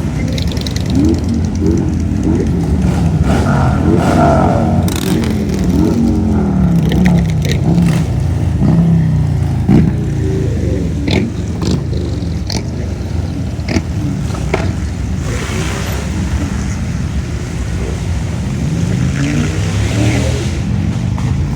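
A car engine running with a low rumble, its pitch rising and falling again and again as it is revved.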